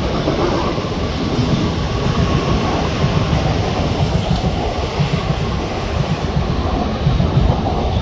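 Southeastern electric multiple-unit trains running through the station, one along the platform and a white Class 465 Networker on the far tracks: a steady, loud rumble of wheels on rail with light clicks over the rail joints.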